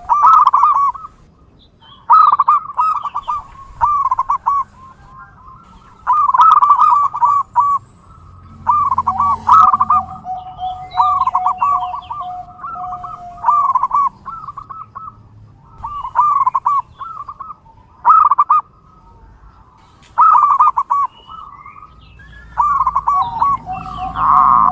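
Zebra dove (perkutut) song: phrases of quick cooing notes repeated about every two seconds, some with a long, steady lower note held beneath them.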